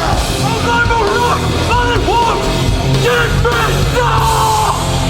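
Hardcore punk band playing live at full volume, distorted guitars and drums with yelled vocals.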